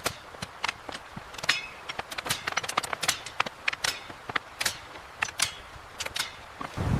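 A rapid, irregular series of sharp clicks and taps over a quiet background.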